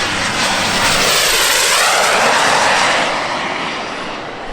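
Turbine engines of a large multi-turbine model jet passing by: a loud rushing whoosh that swells over the first few seconds and then fades as it moves away.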